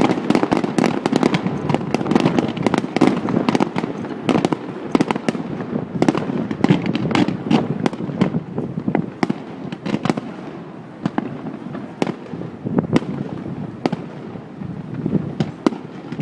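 Aerial fireworks going off in a dense run of overlapping bangs and crackles, thinning to scattered single reports in the second half.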